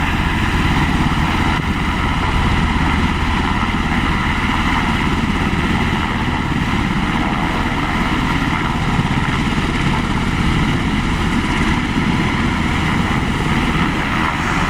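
Firefighting helicopter's turbine engine and rotor running steadily at close range.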